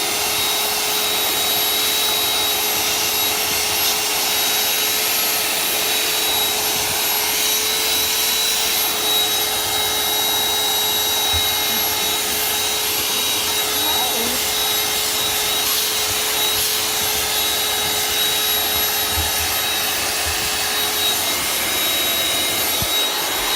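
Vacuum cleaner with a crevice tool running steadily, a motor whine over rushing suction, as it cleans a car's interior. The motor is switched off right at the end and winds down.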